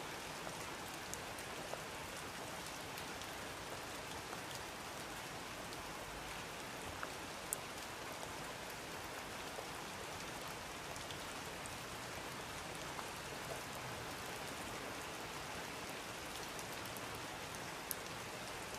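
Steady, faint rainfall hissing evenly, with a few single drops ticking sharply now and then, clearest about seven and a half seconds in and near the end.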